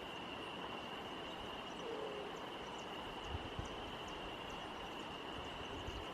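Outdoor field ambience: a steady high-pitched hum over a low rumble, with a few brief low bumps a little past the middle.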